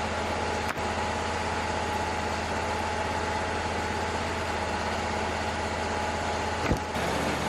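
Wood-Mizer LT35 portable sawmill running steadily, its engine drone carrying a constant whine. A short sharp knock comes near the end, after which the low hum shifts.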